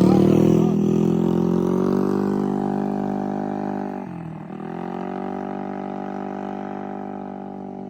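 Moped engine running as the bike moves off, its note sinking slightly and growing steadily fainter. About four seconds in the pitch dips briefly, then the engine settles into a steady lower note.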